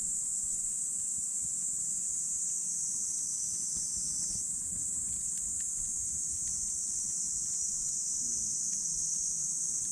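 A wood campfire crackling with a few faint, sparse pops, under a steady high-pitched chorus of insects.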